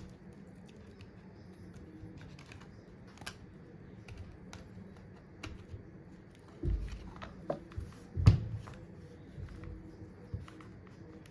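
Scattered small clicks and ticks of hand tools working at a phone's screen and casing during disassembly, with two dull knocks about two-thirds of the way through, the second the louder.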